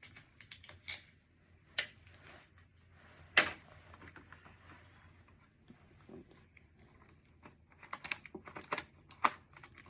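Scattered sharp clicks and taps of small hard items being handled and set down, the loudest about three and a half seconds in, with a quick run of clicks near the end.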